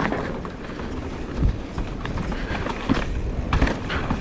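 Mountain bike rolling over rough trail: a steady rush of tyre and wind noise, with irregular knocks and rattles as the bike hits bumps.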